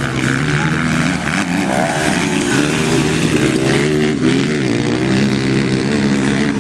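Motocross bike engines revving, their pitch rising and falling again and again as the throttle is worked.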